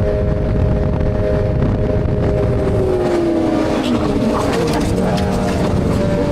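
Motorcycle riding at speed with heavy wind rush over a steady engine note; the engine pitch dips about three seconds in and climbs again near the end.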